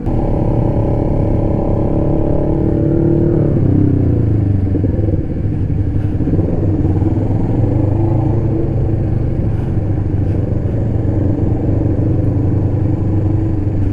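Yamaha R3 parallel-twin motorcycle engine running under way. It holds a steady pitch, then drops in revs about three and a half seconds in and carries on at a lower, steady pitch.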